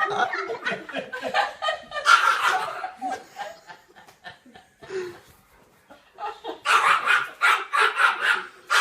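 A person laughing together with a dog's vocalizing. The sound dies down for a couple of seconds midway, then the laughter starts again loudly.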